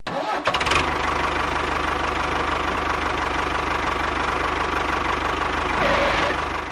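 A motor running steadily with a rapid, even chugging pulse. It starts about half a second in and fades out at the very end.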